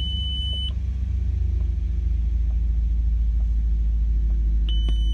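Audi V8 engine idling with a steady low rumble shortly after being started. A dashboard warning chime sounds at the start and again near the end, about a second each time; it goes with a headlight warning on the dash.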